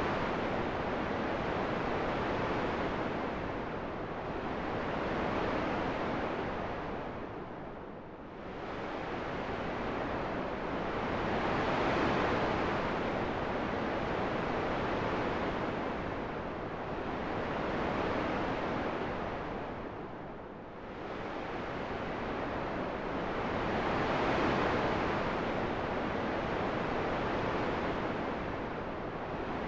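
Wind blowing as a steady, even hiss that swells and fades in slow surges, dropping into a lull about every twelve seconds.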